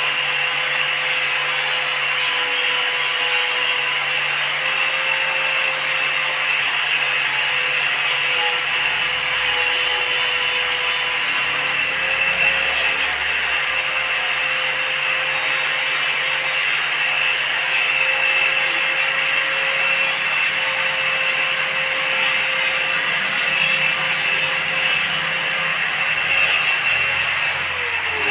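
A handheld power tool's motor running steadily with a constant whine while it works, then switched off and winding down right at the end.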